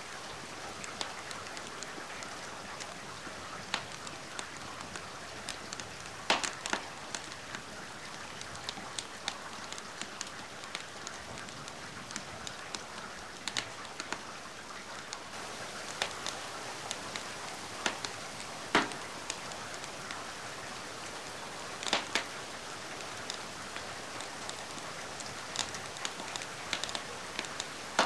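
Steady rain with a wood fire crackling, its sharp pops and snaps scattered irregularly over the even hiss of the rain.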